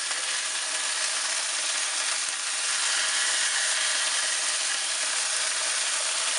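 Chicken breast sizzling steadily in hot oil in a frying pan, with onion and garlic in the pan.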